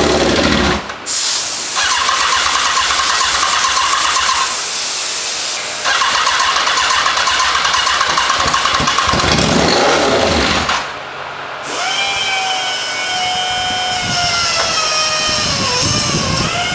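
Engine being cranked over in three long spells separated by short pauses, not catching and running, consistent with an engine getting no fuel and firing only on ether. Near the end a pitched whine slowly falls in pitch, then jumps back up.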